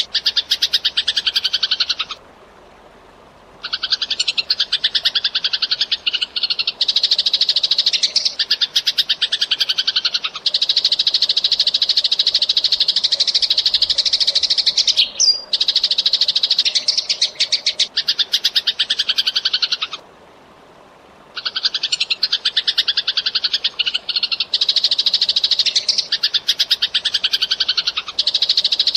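Eurasian tree sparrow chirping in a fast, dense, continuous chatter, with falling notes mixed in and two short pauses.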